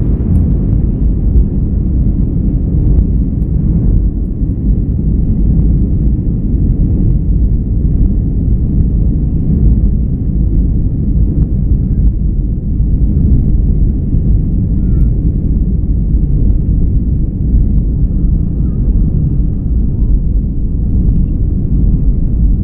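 Jet airliner heard from inside the cabin during takeoff: a loud, steady low rumble of the engines at takeoff thrust and the airframe.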